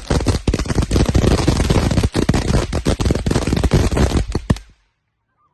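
Fireworks going off in a rapid, dense barrage of sharp pops and crackles that cuts off abruptly near the end.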